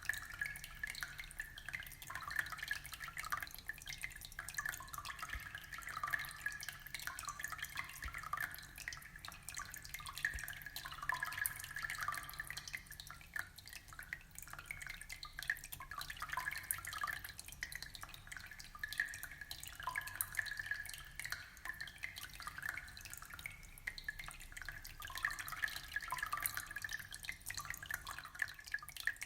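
Aquarium water trickling and bubbling steadily: a dense, unbroken run of small drips and splashes.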